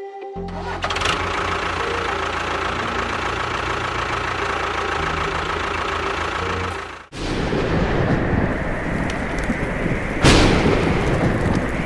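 A small motor running steadily for several seconds. It cuts off sharply about seven seconds in and gives way to a rougher, noisier running sound, with one loud rush near the end.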